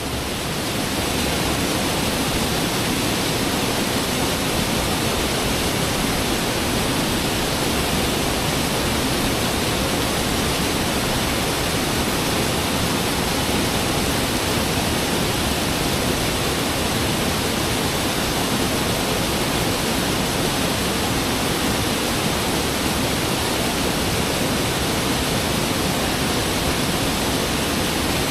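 Waterfall on a brook: a steady rush of falling water, fading in over about the first second and then holding even.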